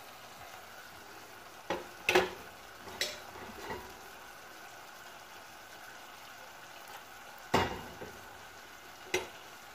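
Vegetables and sauce frying in a pot: a steady soft sizzle. A few sharp knocks of utensils against the pot come about two, three and seven and a half seconds in.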